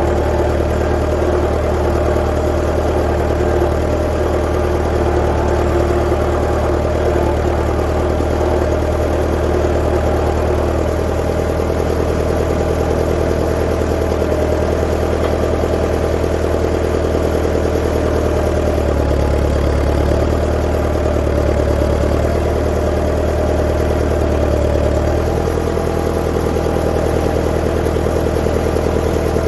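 1959 Fordson Power Major tractor's four-cylinder engine running steadily, its note shifting slightly about two-thirds of the way through.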